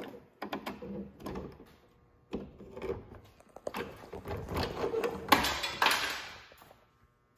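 Clicks, knocks and scraping as a truck trim piece is pushed and worked against the body to line up its clips. A sharp click about five seconds in is followed by a brief scraping rustle.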